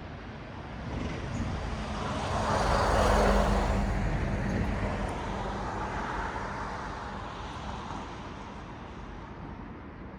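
A car passing by on the road: tyre and engine noise swelling to a peak about three seconds in, then slowly fading away.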